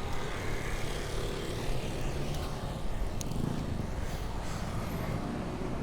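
Steady rumble of wind on the microphone and road traffic noise, heard from a moving bicycle.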